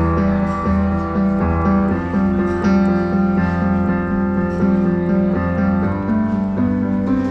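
Roland Juno-DS61 synthesizer's pop piano patch playing an instrumental passage: repeated chords over steady bass notes.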